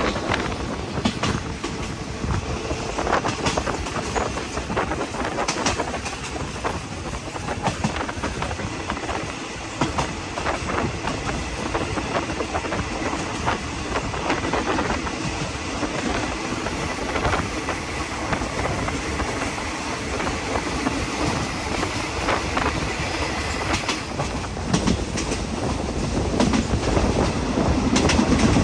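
Passenger train running along the track, its wheels clattering irregularly over rail joints under a steady rumble, getting a little louder near the end.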